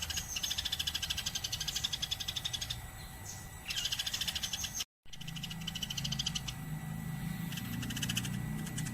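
Eurasian tree sparrow chattering: long fast trains of sharp chirps, about ten a second, breaking off for a moment and starting again, with a very brief dead silence about halfway through.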